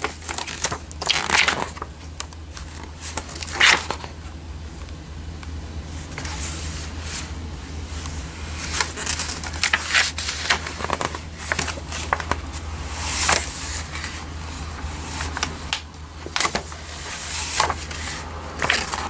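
Paper brochure pages being handled and turned, with irregular rustling and crinkling throughout over a steady low hum.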